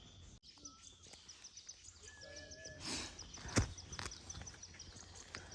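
Rural outdoor ambience: a fast, even high-pitched chirping, about four or five chirps a second, with a short whistled call about two seconds in and one sharp knock past halfway.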